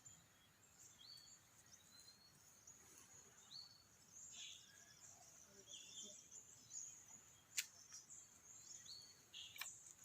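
Near silence with faint outdoor ambience: scattered short bird chirps every second or so and a faint steady high hiss, with two sharp clicks near the end.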